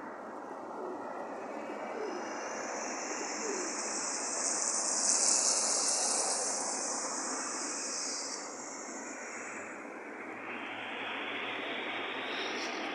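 Steady outdoor rushing noise, with a high hiss that swells to a peak about five seconds in and fades away a few seconds later, then a milder swell near the end.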